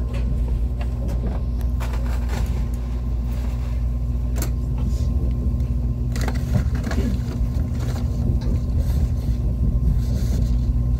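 Inside an ITX-Maeum electric multiple-unit train running on track: a steady low rumble with a faint even hum, broken by occasional sharp clicks and knocks from the wheels on the rails.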